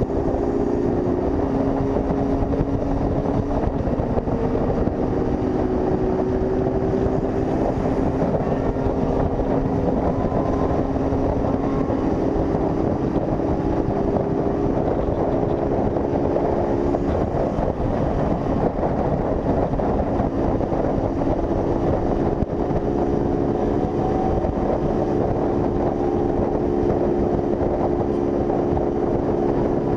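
Honda CG 160 Fan's single-cylinder four-stroke engine running at a steady cruising speed, its pitch drifting slowly up and down, with wind rushing over the microphone.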